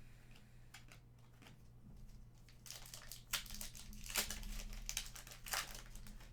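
Trading cards and their packaging being handled: faint ticks and slides at first, then a run of louder crinkling rustles in the second half.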